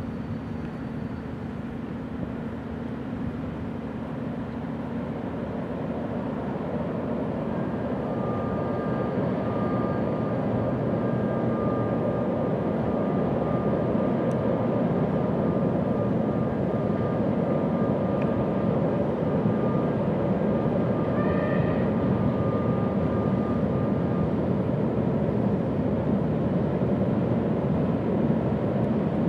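Train crossing a steel truss railway bridge: a steady rumble of wheels on the steel span. It grows louder over the first ten seconds or so, with a thin steady whine running through the middle stretch.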